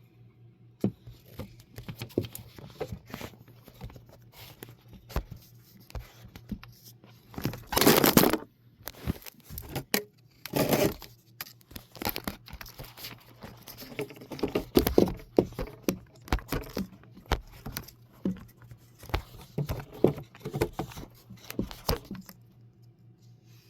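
Close rustling and crinkling with many scattered clicks, with two louder rustles about eight and eleven seconds in.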